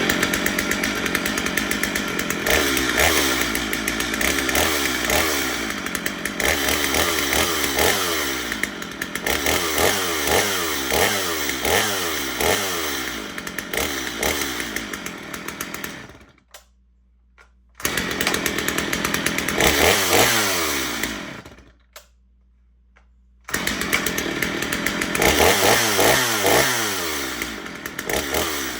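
XtremepowerUS two-stroke chainsaw running and being revved again and again, its engine note climbing and falling back with each throttle blip. The sound cuts out abruptly twice, briefly each time.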